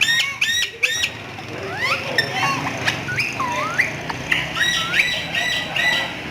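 Parrot squawking three times in quick succession. This is followed by a run of gliding whistles and short chirps.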